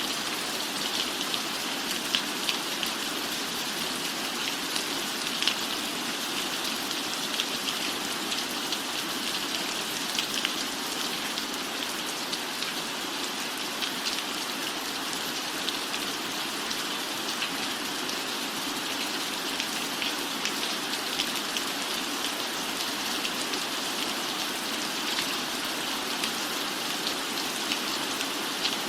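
Steady rain falling: an even hiss dotted with many small, sharp drop taps, unchanging throughout.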